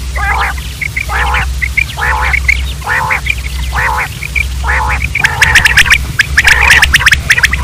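Quail calling over and over in short, harsh, nasal notes about once a second, with the calls crowding closer and louder from about five seconds in. A steady low hum runs underneath.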